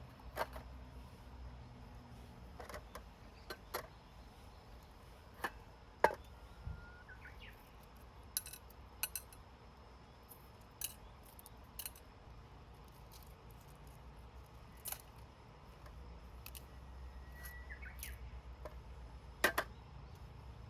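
Wood fire crackling in a fire pit: sharp pops at irregular intervals, the loudest about six seconds in and near the end, over a low steady rush. A thin whistling tone sounds briefly twice.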